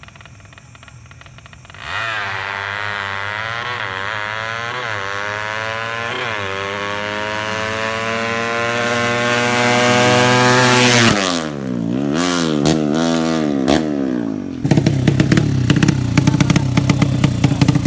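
Drag-race motorcycle engine starting up about two seconds in and accelerating hard, its pitch climbing steadily, then dropping sharply about eleven seconds in, followed by a few short revs. From about fifteen seconds a loud, rapid, pulsing engine sound close by.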